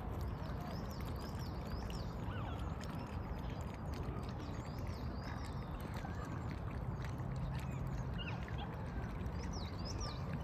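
Birds calling with short, high chirps scattered throughout, over a steady background hiss of outdoor noise.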